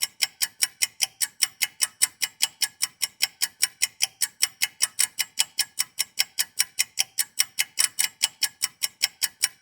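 Rapid, even ticking, about five sharp ticks a second, like a clock or timer sound effect laid into the edit; it starts and stops abruptly with silence either side.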